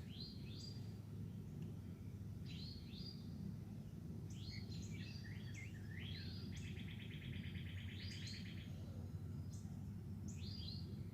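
Wild birds singing and chirping, short high notes coming every second or so, with a rapid trill lasting about two seconds in the middle. A steady low rumble runs underneath.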